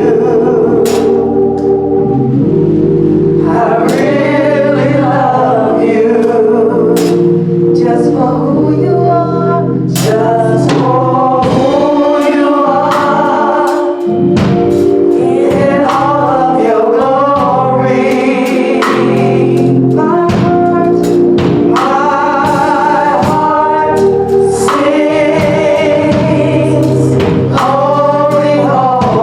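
Gospel choir singing with held instrumental chords underneath.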